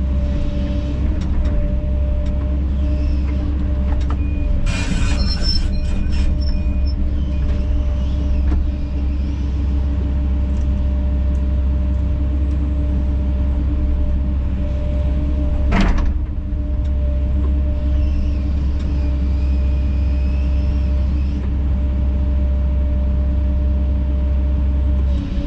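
Kobelco SK210 excavator's diesel engine running steadily under work. A brief noisy scrape with a high whine comes about five seconds in, and one sharp knock comes near the middle.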